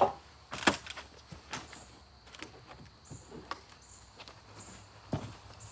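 Scattered knocks and clunks from tin roofing panels being handled and shifted by hand, a sharp loud knock at the very start and a handful of lighter ones spread through, with footsteps.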